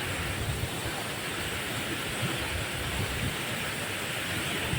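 Steady rush of falling water from a waterfall, a constant noise with a low rumble.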